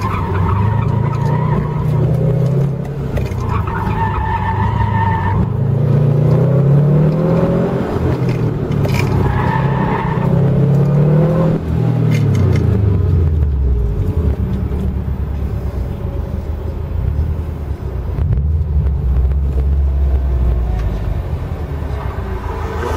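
Car engine heard from inside the car on an autocross course, its pitch climbing and dropping again and again as it accelerates and brakes between cones, with tyres squealing through the turns several times. After about twelve seconds the engine winds down and settles into a low, steady rumble as the car rolls slowly.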